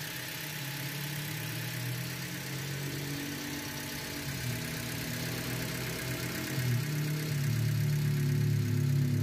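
Toyota Agya 1200's four-cylinder petrol engine idling steadily on freshly cleaned and refitted spark plugs, getting a little louder near the end.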